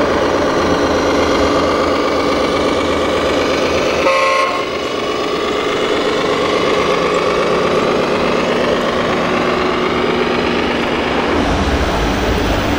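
RC model truck sound module running a steady engine sound, with one short horn toot about four seconds in.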